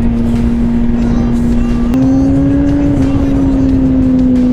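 A motor vehicle running at a steady pitch, stepping up about two seconds in and then slowly sinking back, with music.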